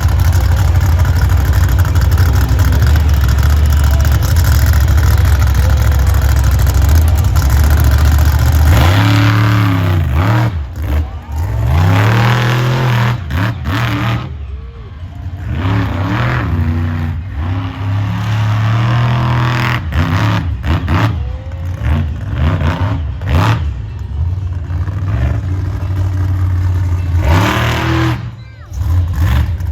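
Monster truck engine running loud and steady, then from about nine seconds in revved hard up and down again and again, with short dips as the throttle is let off.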